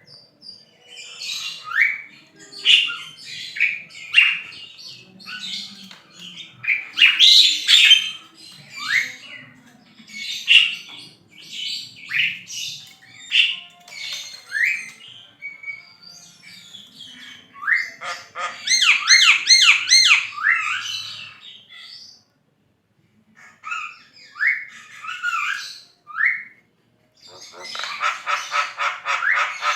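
Javan myna singing vigorously: a varied stream of harsh squawks, short rising whistles and chatter. A fast run of repeated notes comes about two-thirds of the way through, then a brief pause, and another fast rattling series near the end.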